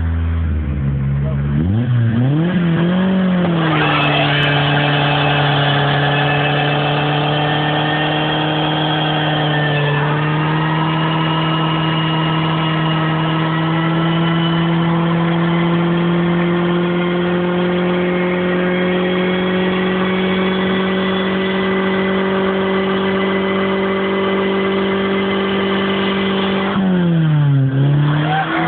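Opel Vectra 1.8's four-cylinder engine revved up and held at high revs for over twenty seconds in a burnout, the front wheel spinning in a cloud of tyre smoke; the revs drop sharply near the end.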